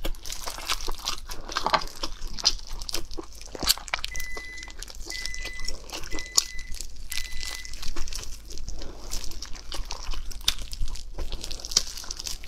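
Close-miked eating sounds: chewing, biting and mouth smacks on roast chicken, with the plastic gloves crinkling as the meat is pulled apart. Four short high beeps come about a second apart in the middle.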